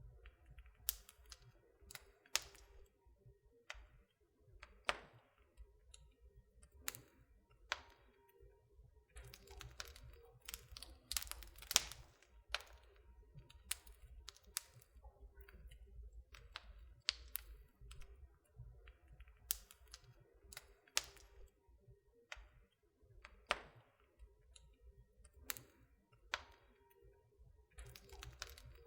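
Wood fire burning in a fireplace, crackling with irregular sharp snaps and pops, some much louder than the rest, over a faint low rumble.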